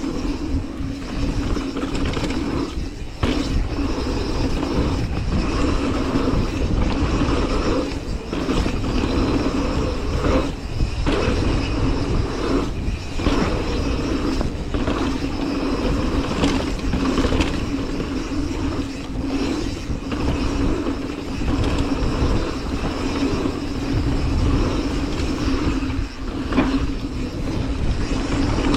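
Mountain bike riding down a dirt trail: tyres rumbling over the ground and the rear freehub giving a steady buzz while coasting, broken off briefly several times.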